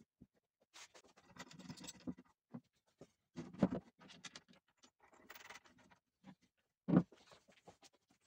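Hand work on a wooden chair: irregular bouts of scraping and rubbing, broken by a few sharp knocks, the loudest about seven seconds in.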